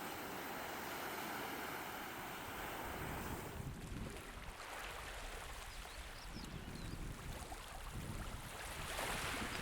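Wind and surf making a steady noise; from about three seconds in, gusts buffet the microphone with a low, uneven rumble.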